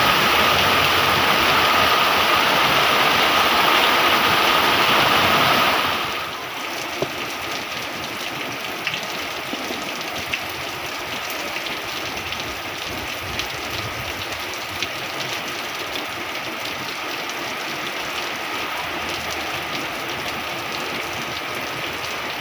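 Heavy rain falling steadily. For about the first six seconds a louder rush of water with a steady tone covers it, then cuts off suddenly, leaving the even hiss of the downpour with scattered sharp drop ticks.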